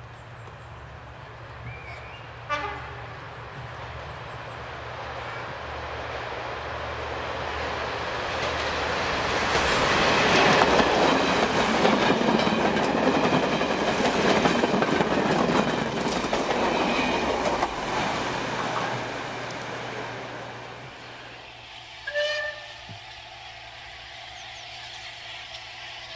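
A train passes close by, its running noise building up, peaking and dying away over about fifteen seconds. A short warning blast sounds about two and a half seconds in, and another near the end.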